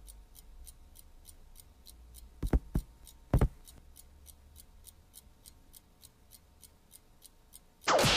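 Clock ticking steadily and quickly, about three ticks a second. Three short low thuds sound together between two and a half and three and a half seconds in.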